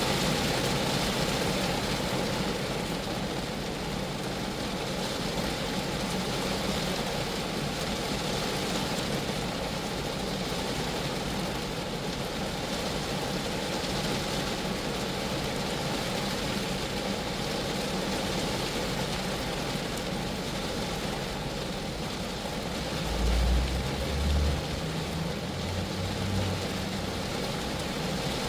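Rain falling steadily on a Geo Metro's body, an even hiss with a low rumble underneath. A few brief low thumps come near the end.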